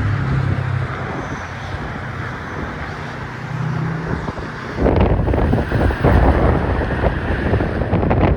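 Wind gusting across a sock-covered cell phone microphone, turning into a loud, irregular buffeting rumble about five seconds in, over steady traffic noise with a low engine hum.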